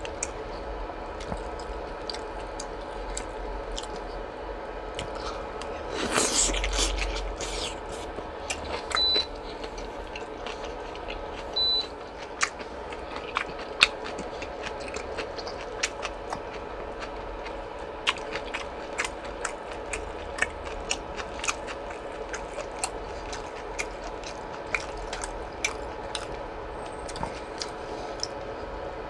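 Close-miked mukbang eating sounds: a person chewing and biting into slices of suyuk (boiled pork), with scattered small clicks, over a steady background hum.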